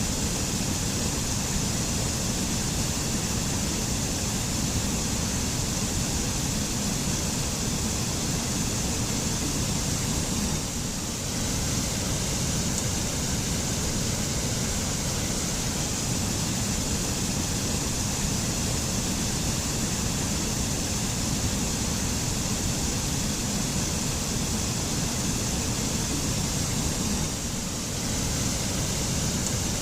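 Mountain waterfall rushing steadily, a constant roar of falling water with no break.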